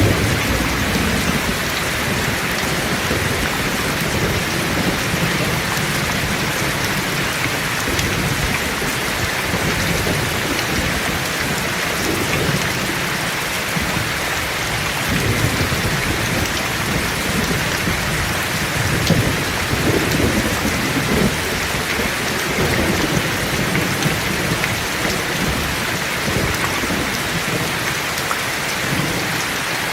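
Heavy rain falling steadily in a dense hiss, with thunder rumbling low underneath in rolls that swell and fade, the strongest about two-thirds of the way through.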